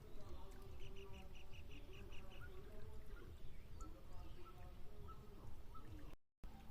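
Bird calling: a quick, even run of about nine short high chirps about a second in, over a steady low rumble. The sound cuts out briefly near the end.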